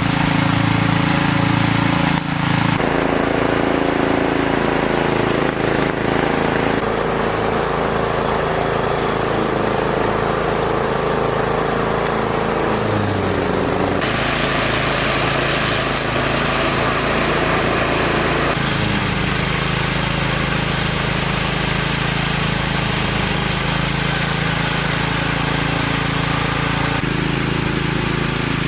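A small engine running steadily, with its sound changing abruptly several times.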